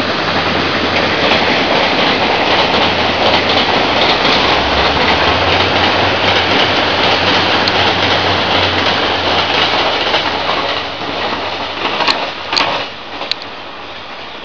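Electric multiple-unit commuter train passing close by: a loud, steady rumble of wheels on rail with a low hum and scattered clicks at the rail joints. The noise fades after about ten seconds, and a few sharper clicks come near the end.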